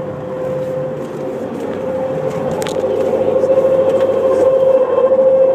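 Jeep differential whining at one steady pitch over road noise, getting louder about halfway through: the sound of a faulty differential.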